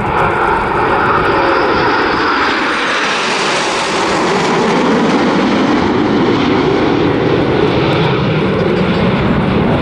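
Formation of BAE Hawk T1 jets, each with a Rolls-Royce Turbomeca Adour turbofan, flying past with a loud, steady jet roar. Its high hiss swells to a peak about four seconds in and then eases as the formation passes.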